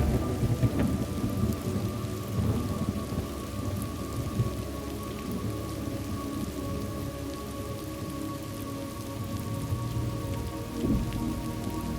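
Thunderstorm ambience: steady rain pattering on a surface, with thunder rumbling at the start, dying away, and rolling in again near the end. A faint steady drone sits underneath.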